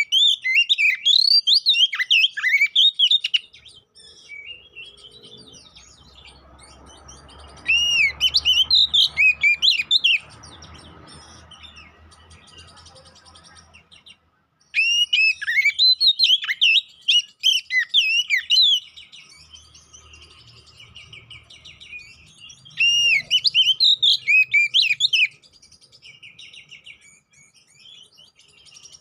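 Oriental magpie-robin (kacer poci) singing in loud bursts of rapid, varied whistled phrases, each lasting two to four seconds, with softer twittering between them.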